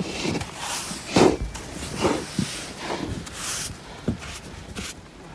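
Irregular crunches and scrapes in deep snow, about half a dozen short strokes spread across a few seconds.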